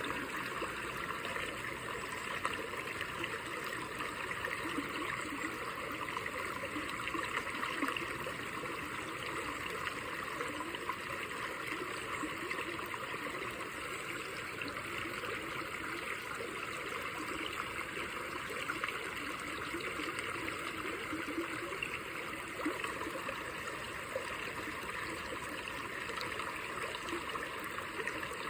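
Running water of a small stream trickling steadily, without a break.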